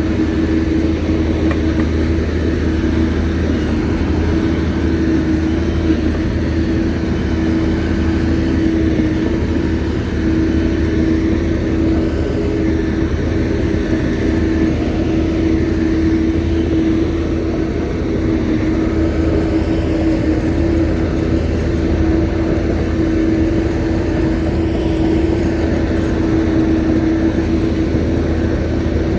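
Shantui bulldozer's diesel engine running steadily, a constant drone at an unchanging pitch.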